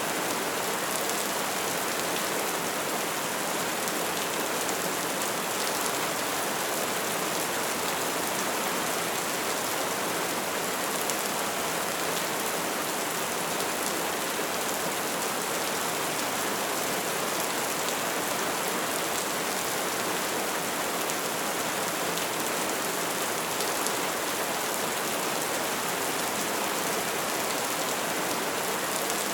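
Bonfire burning with a steady, dense crackle and hiss of many small pops.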